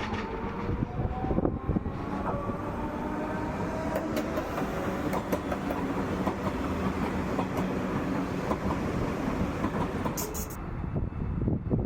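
Train moving along the platform tracks: a steady rumble of wheels on rail, with a rising whine early on and scattered clicks over rail joints.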